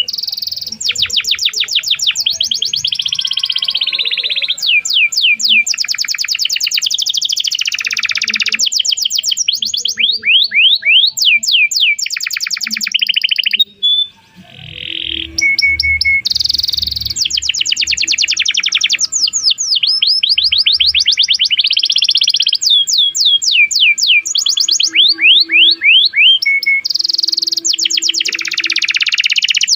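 Domestic canary singing a long, lively song of rapid trills and fast runs of repeated chirps, with a short break about halfway through.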